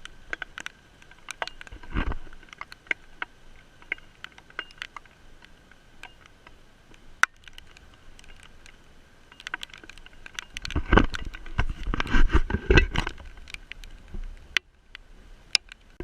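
Raindrops hitting the phone's microphone directly, with no umbrella over it: scattered sharp taps, and a spell of heavier splattering hits with a low thud about ten to thirteen seconds in.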